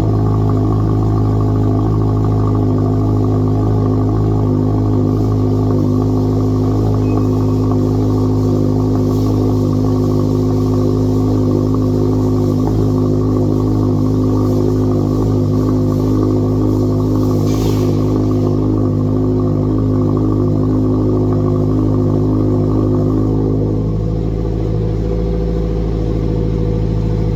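2022 Subaru WRX's 2.4-litre turbo flat-four idling steadily through an aftermarket full cat-back exhaust, inside a parking garage. About 24 seconds in the tone shifts and the level drops slightly.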